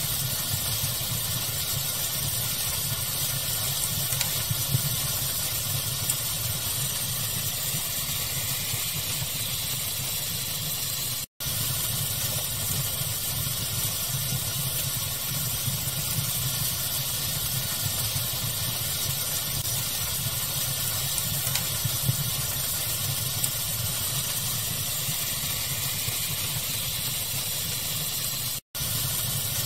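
Steady pink-noise hiss layered with occasional small fire crackles, broken by two very brief silent gaps: one about 11 seconds in and one near the end.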